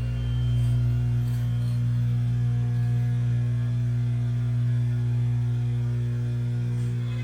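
Electric motor of an Oregon 620-120 chainsaw chain grinder running with a steady low hum.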